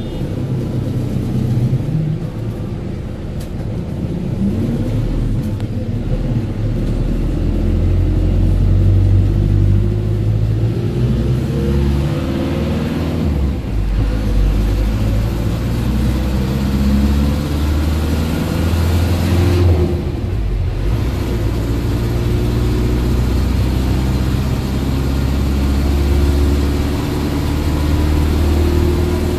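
A car's engine running under way, with a steady low rumble and road noise. The engine pitch rises and falls as it accelerates, and it drops off briefly twice, as at gear changes.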